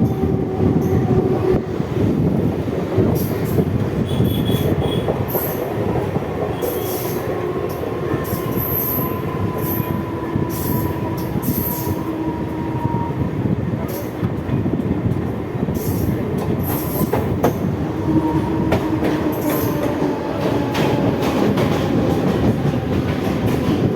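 Mumbai suburban EMU local train running at speed: a steady rumble of wheels on rail, with sharp clicks at irregular spacing and faint thin tones that drift slowly in pitch.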